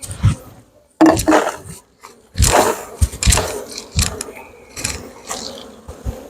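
Beehive equipment being handled: a string of irregular knocks and short scrapes.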